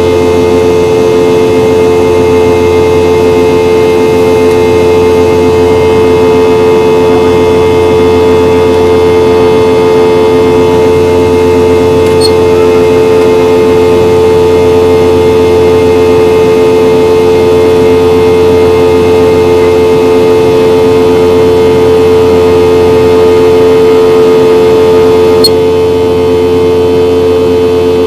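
Boeing 717-200's Rolls-Royce BR715 jet engines heard from inside the cabin: a loud, steady drone with several held tones over a rushing hiss, easing slightly about 25 seconds in.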